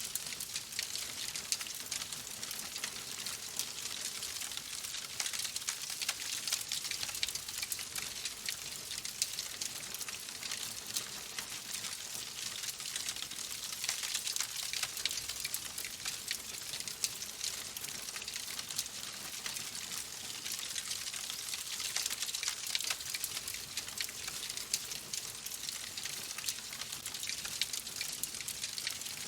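Fireplace fire crackling: a steady hiss with many small, closely spaced pops and snaps.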